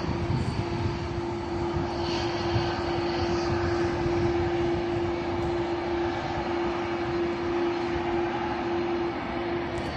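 Airbus A330-300 jet engines running, a steady rumble with one held tone over it.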